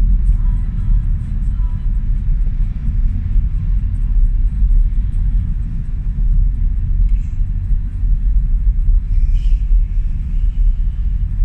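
Steady low rumble of a truck's engine and road noise, loud and unbroken.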